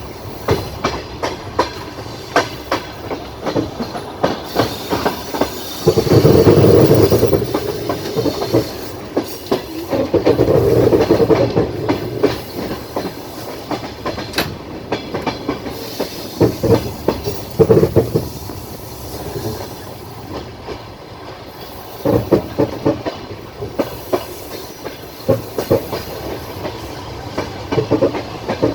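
Passenger train's wheels clacking over rail joints while running at speed, heard from the carriage window, with two louder rushing stretches a few seconds apart.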